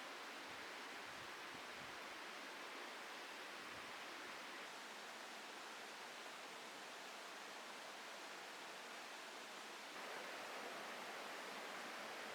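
Steady, even hiss of background noise with no distinct events, a little louder from about ten seconds in.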